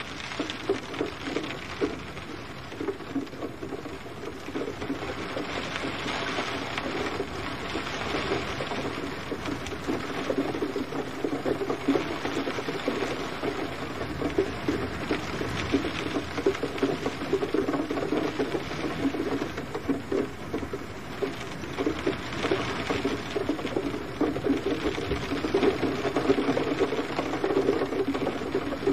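Steady gentle rain, a dense patter of many small drops landing without letting up.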